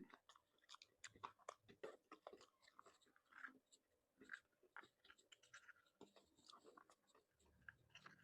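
Faint mouth sounds of chewing seafood: irregular small clicks and crunches, several a second.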